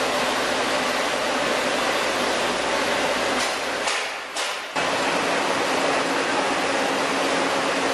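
Chili milling line machinery running: a loud, steady mechanical rush with a constant hum. The sound drops for under a second about four seconds in, then returns at full level.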